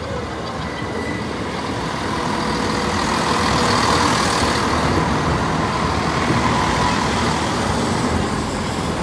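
East Midlands Railway Class 170 Turbostar diesel multiple unit passing close by at low speed over a level crossing. The steady rumble of its engines and wheels builds to its loudest about four seconds in and stays loud as the carriages go by.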